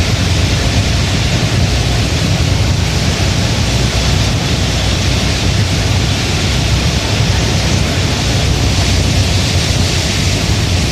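Heavy rain falling steadily, an even hiss with a constant low rumble underneath.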